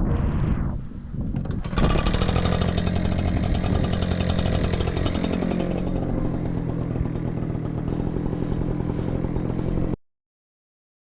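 Two-stroke engine of an Echo PB-9010T backpack leaf blower running at high speed, starting abruptly about two seconds in after a moment of wind on the microphone, and cutting off suddenly near the end.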